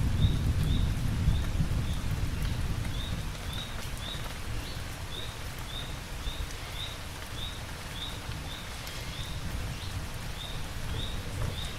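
Steady rain, with a low thunder rumble dying away over the first few seconds. A short, high chirp repeats about twice a second throughout.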